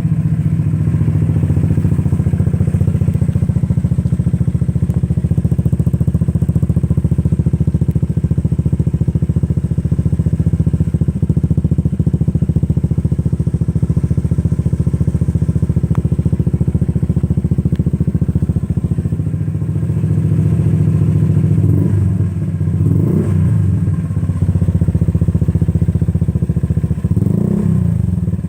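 Honda PCX scooter's single-cylinder engine idling steadily and loudly through an Akrapovic exhaust with the silencer removed. Near the end it is blipped twice, revving up and falling back to idle.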